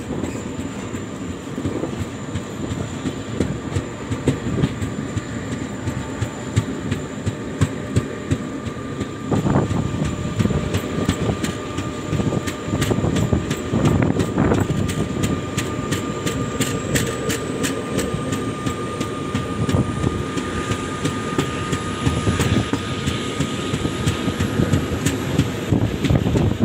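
Moving passenger train heard from on board a coach: steady wheel-on-rail rumble with many quick clicks and clacks from the track. A faint high whine slowly rises in pitch over the second half.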